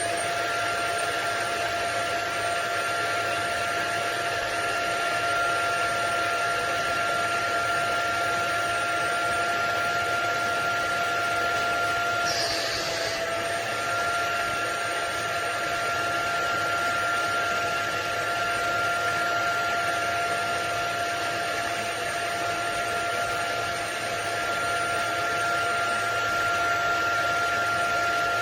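Vacmaster SCA0801 carpet and spot cleaner's suction motor running steadily, an even rushing noise with a constant motor whine.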